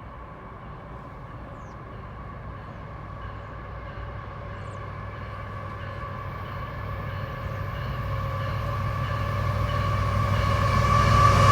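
CSX diesel freight locomotive approaching and growing steadily louder, a low rumble with a steady whine over it.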